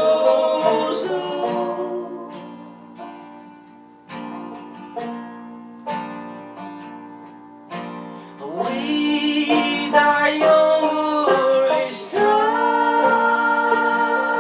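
Acoustic live music: plucked guitar notes ring out and fade, then single notes are picked one at a time. About eight and a half seconds in, the band swells back in with held, wordless singing over the guitar.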